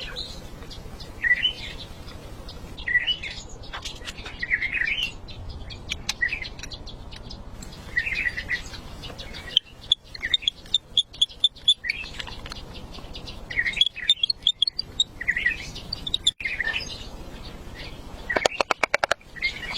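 Bird chirping in short repeated calls, with a run of quick high ticking notes in the middle and a fast rattling burst near the end.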